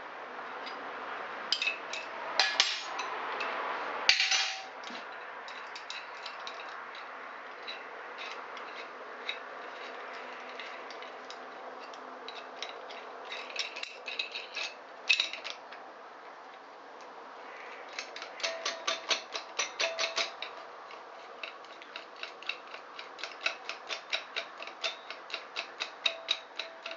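Small metal clicks and taps of hand tools working a tight gudgeon pin out of a Honda SL125 piston, scattered at first, then settling into a steady run of several light taps a second in the last third.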